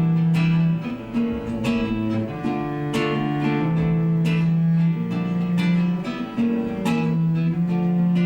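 Instrumental music: acoustic guitar chords strummed every half-second to second over long held low notes, with no singing.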